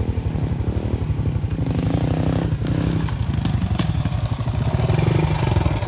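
Suzuki 125 cc four-stroke dirt bike with an FMF exhaust running, its revs rising and falling about two to three seconds in, then a little louder near the end.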